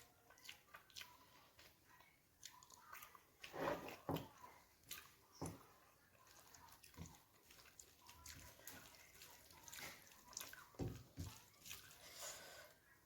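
Quiet close-up eating sounds: a person chewing food, with irregular soft mouth clicks and smacks, a little louder about four seconds in and again near the end.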